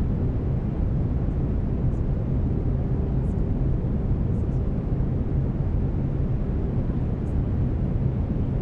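Steady brown noise, a deep, even rumbling hiss, with faint low steady tones underneath from the binaural-beat track.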